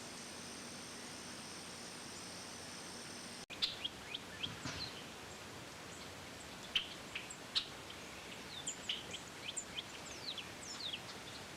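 Steady hiss with a thin high whine for about three and a half seconds, then it cuts off abruptly and birds chirp: many short, quick downward-sliding chirps, a few of them loud, scattered through the rest.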